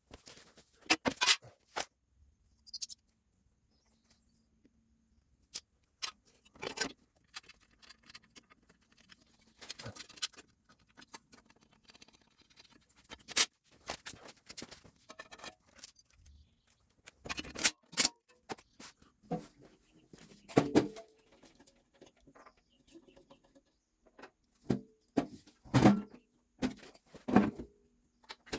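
Irregular clinks, taps and knocks of hand tools against metal parts, with short quiet gaps between them, as a tractor rear axle is reassembled after a seal replacement.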